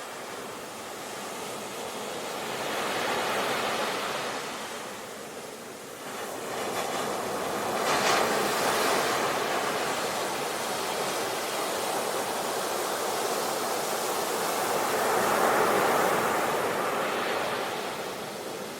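Sea waves surging and breaking on the shore, swelling and ebbing about three times, with a sudden wave break about eight seconds in.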